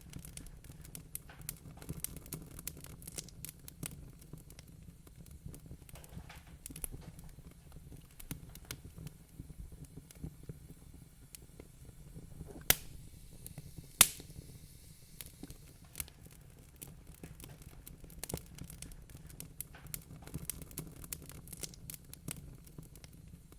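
Wood-burning fire crackling, with many small snaps and two much louder pops about halfway through, over a steady low rumble.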